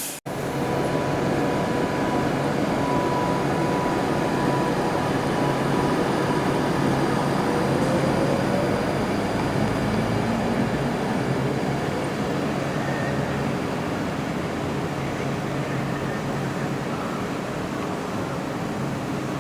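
Electric passenger train at a station platform: a steady rumble with a constant low electrical hum, and a faint whine rising slightly in pitch about eight seconds in.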